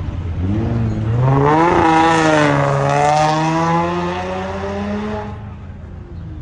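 Vehicle engine accelerating: its pitch climbs over the first two seconds, holds and edges higher for a few more, then fades away a little after five seconds.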